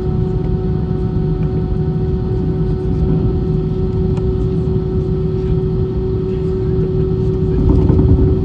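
Airbus A320 jet engines heard as a steady cabin drone: a dense low rumble with a constant hum running through it, swelling slightly near the end.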